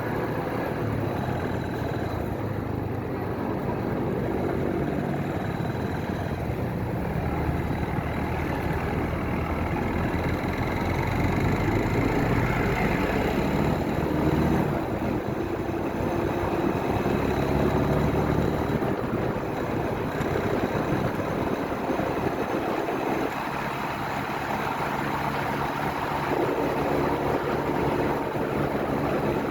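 Motorcycle engine running while riding. The revs climb over several seconds about a third of the way in, then drop back.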